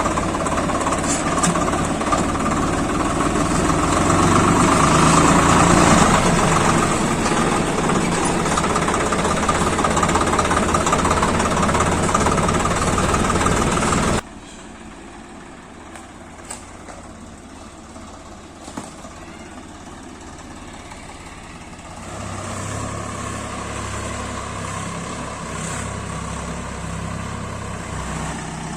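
Swaraj 855 FE tractor's diesel engine running steadily under load while pulling a cultivator. About halfway through the sound drops suddenly to a quieter, more distant engine note, then grows louder again a few seconds before the end.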